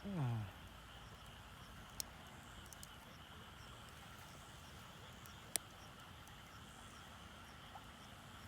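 Steady insect chirring, with two sharp pops of burning firewood about two and five and a half seconds in. A short falling voice-like grunt comes right at the start.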